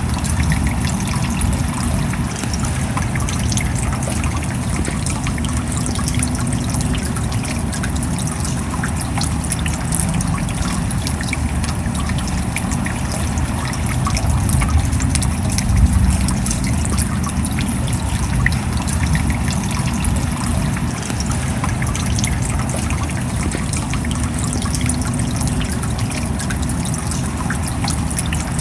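Steady rain, with many small drop impacts over a deeper rumble. It swells briefly about sixteen seconds in.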